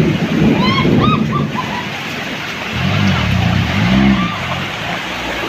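Loaded sand truck's diesel engine rumbling, then revving up and easing back twice about three seconds in.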